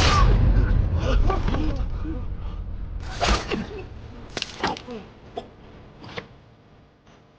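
Sword-fight battle sound effects: men shouting and crying out over a din that fades away, broken by several sharp weapon strikes.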